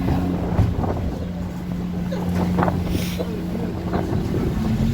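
A motor vehicle engine running with a steady low hum, and wind noise buffeting the microphone.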